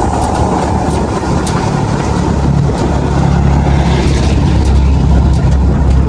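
An engine running steadily with a low rumble, getting a little louder about halfway through.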